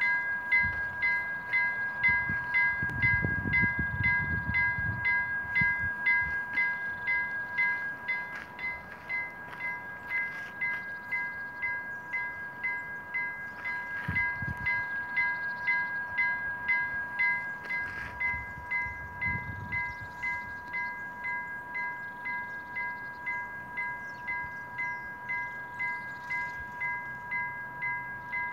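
Level crossing warning bell ringing steadily, with rapid evenly spaced strokes about twice a second over a held two-note tone: the crossing is signalling that a train is approaching. Low gusts of wind on the microphone come and go, the strongest a few seconds in.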